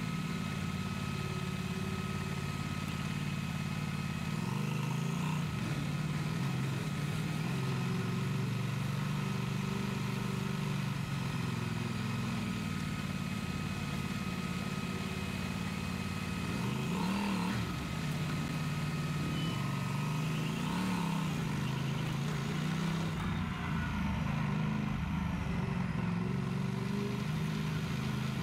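Yamaha Super Ténéré's parallel-twin motorcycle engine running under way, with wind rushing. The engine pitch dips and climbs again twice a little past the middle, and the wind hiss drops away near the end.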